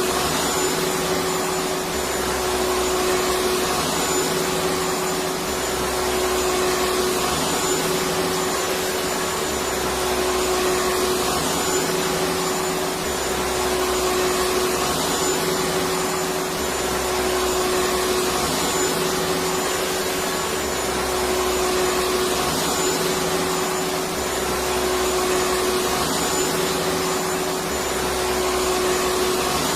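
Electric vacuum cleaner running steadily: a constant motor whine over rushing air, with a low hum that swells and fades about every two seconds.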